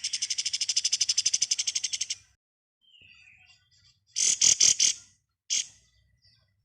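Pied triller (kapas tembak) singing in rapid 'ngebren' style: a fast, even rattling trill for about two seconds, then a short burst of a few loud notes about four seconds in and a single note just after.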